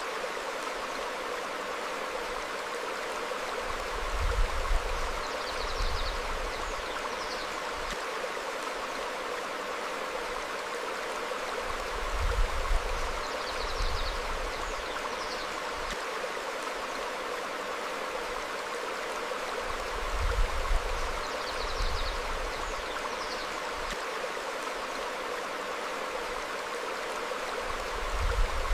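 A stream flowing steadily over rocks, with faint short bird chirps. Low rumbles, the loudest moments, come about every eight seconds, each followed by chirps, so the sound repeats as a loop.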